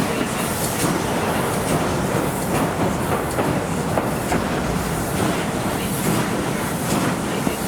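Steam-hauled passenger train running, heard from inside a coach: a steady running noise with short clicks about once a second from the wheels on the rail joints.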